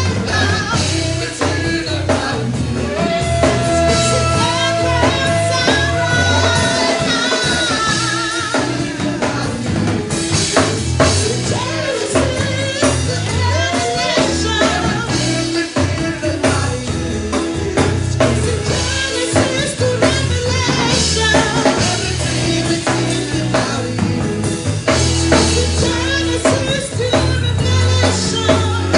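Church worship band playing a song, with singing over a drum kit and other instruments.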